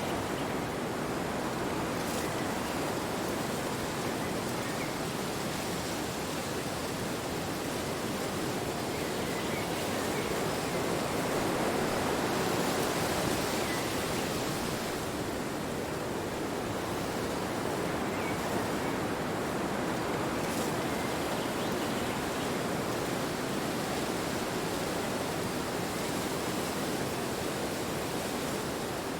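Steady wind blowing, a constant rushing noise that swells a little about halfway through.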